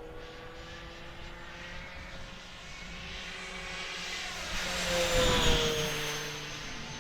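Brushless electric motor and propeller of an E-flite Air Tractor 1.5m radio-control plane on 4-cell power, making a fast pass: the whine grows louder as the plane approaches, is loudest about five seconds in, then drops in pitch as it flies past and away.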